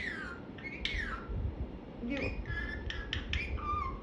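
Indian ringneck parrot calling: two high falling whistles in the first second or so, then a run of clicks and short high notes, over the low hum of a fan.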